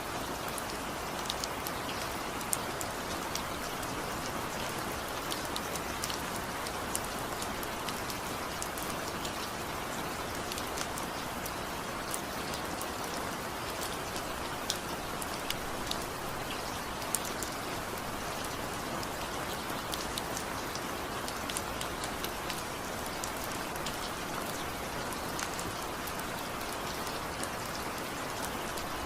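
Steady rain falling, an even hiss with many scattered drop ticks, no thunder.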